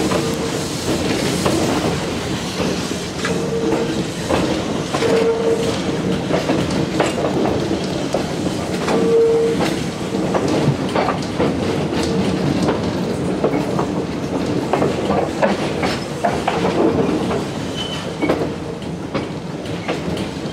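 Konan Railway Owani Line electric train running through a station yard: steady running rumble with repeated clicks of the wheels over rail joints and points, and a few brief wheel squeals.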